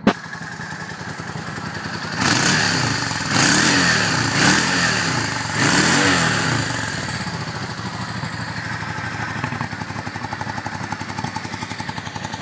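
2003 Yamaha V-Star Classic's V-twin engine idling just after a cold start; the throttle is blipped about four times in quick succession a couple of seconds in, each rev rising and falling, and it then settles back to a steady idle.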